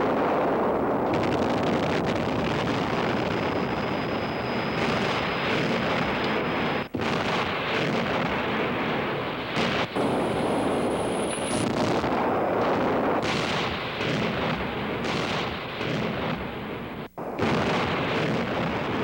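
Dynamite blasting on canyon rock walls: a loud, dense, continuous rumble and roar, cut off for an instant about seven seconds in and again about seventeen seconds in.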